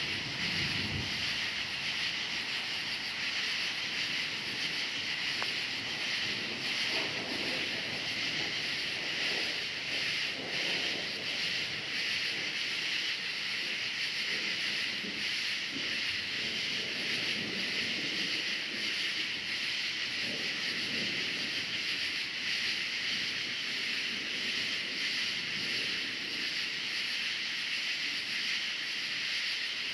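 Chorus of crickets chirping continuously in a dense, steady, high-pitched trill, with faint low rumbling of distant thunder coming and going underneath.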